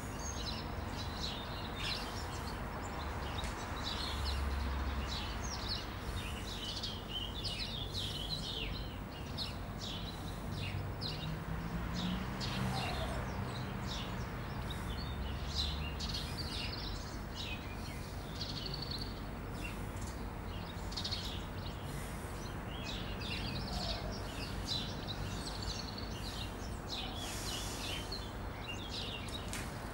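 Small birds chirping and twittering on and off throughout, over a steady low background hum.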